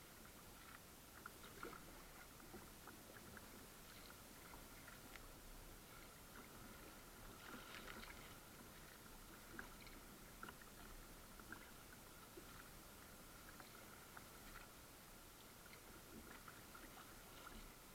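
Faint sounds of a kayak being paddled: scattered light drips and splashes from the paddle blades, with a slightly busier splash about eight seconds in.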